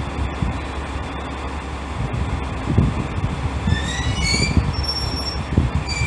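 JR West Class 125 electric railcar running slowly into the platform with a low rumble. About four seconds in come brief high squeals that rise in pitch, and a few short squeals follow near the end as it brakes to a stop.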